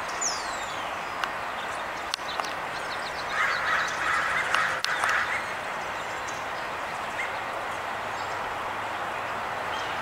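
Birds calling over a steady outdoor hiss: a thin high whistle that slides down in pitch right at the start, then a harsher, scratchy call for a couple of seconds near the middle.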